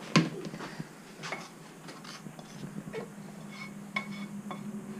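Kitchen dishes and utensils clinking and knocking: one sharp knock just after the start, then a few lighter clinks, over a steady low hum.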